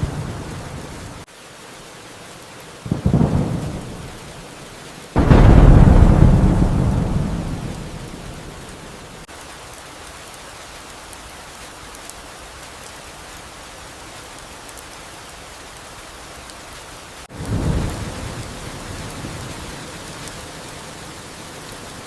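Steady rain with thunder. A rumble cuts off suddenly about a second in. Thunderclaps strike about three and five seconds in; the second is the loudest and rolls away over a few seconds. A weaker clap comes near the end.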